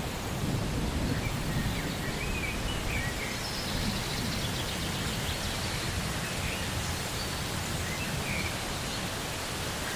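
Steady rainfall, an even hiss with no single drops standing out, with short bird chirps scattered through it.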